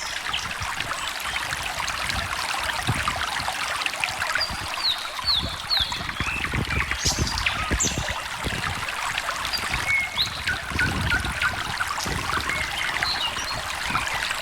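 A small stream trickling and gurgling steadily, with birds chirping over it in short high notes. A quick run of three or four chirps comes about five seconds in, and a lower series of chirps comes near the end.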